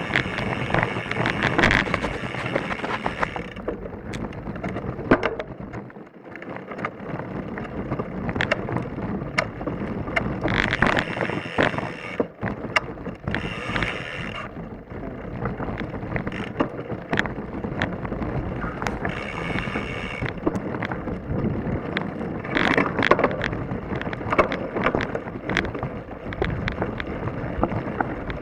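Mountain bike descending a rough, rocky trail: tyres crunching and knocking over loose rock, the bike rattling, and wind buffeting the action camera's microphone. A few short stretches of high buzzing come and go.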